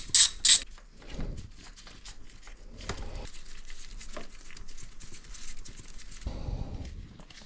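Hand-tool work on a motorcycle engine: a quick run of sharp clicks at the start, then scattered light knocks and clinks.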